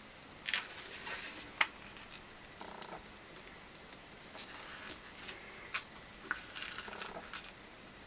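Handling noise: a few sharp clicks and some short soft rustles, close by.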